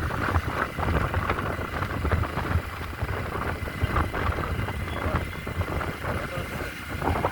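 Motorcycle running along the road, its engine rumble mixed with wind rushing and buffeting over the microphone.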